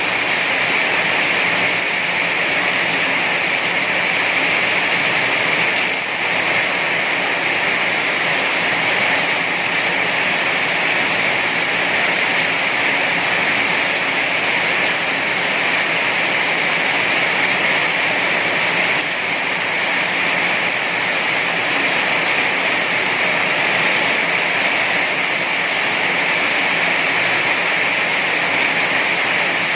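Heavy rain falling, an even, steady rush of water noise with no thunder or separate drops standing out.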